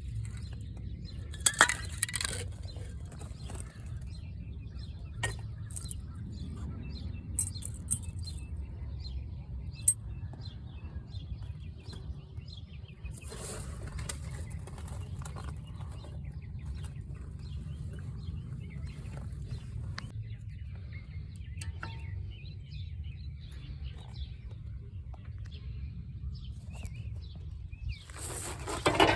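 Scattered metallic clinks and clicks of hand tools and parts being handled on a car's brake assembly, with a few short bursts of rustling noise, over a steady low rumble.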